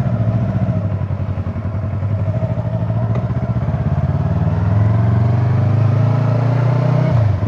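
Yamaha R25's 250 cc parallel-twin engine, with a slip-on exhaust, pulling away and accelerating. Its pitch rises gradually, holds, then dips suddenly near the end.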